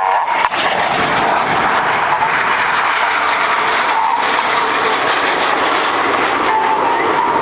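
Jet engine noise from the Red Arrows' BAE Hawk T1 jets flying their display, a loud, steady rushing noise.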